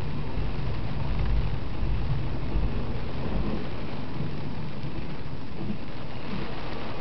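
Intermodal freight train rolling past in the rain: a steady low rumble of wheels on rail mixed with the hiss of rain.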